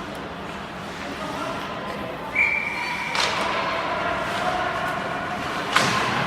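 Ice hockey game sounds: rink spectators' voices and shouts, a short high whistle blast a little over two seconds in, and two sharp cracks of puck or stick against the boards, about three and six seconds in.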